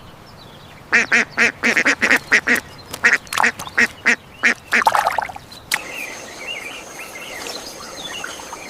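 Duck quacking in a rapid series of short quacks for about five seconds, then faint bird chirping.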